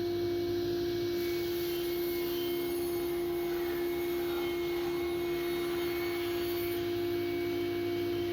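Circular saw bench running with a steady whine and no change in pitch or level.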